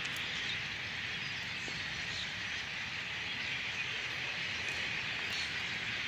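A huge flock of blackbirds calling all at once, blending into a steady, dense chattering din with faint individual chirps showing through.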